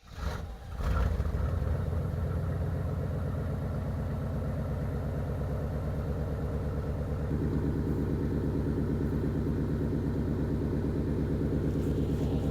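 Pickup truck engine running steadily, its tone shifting slightly about seven seconds in.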